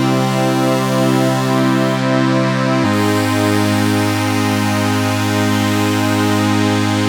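Sequential Fourm four-voice analog polyphonic synthesizer playing its 'Bizarre Evolution' factory preset, dry with no effects: sustained chords whose overtones pulse slowly. The chord changes to a lower one about three seconds in.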